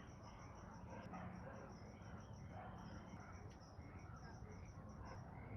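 Faint, high-pitched insect chirping repeating about five times a second.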